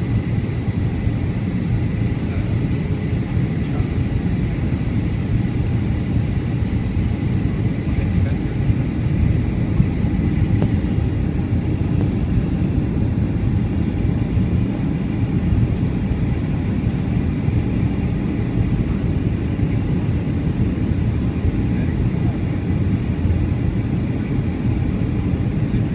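Steady cabin noise of a Boeing 757-200 in flight: a constant low rumble of engines and airflow, with a faint, even high whine.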